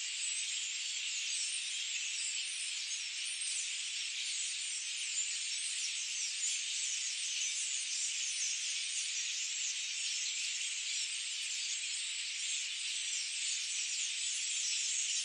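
Dense, unbroken high-pitched chorus of forest creatures, many quick overlapping calls running together into a steady shrill wash with no low sound under it.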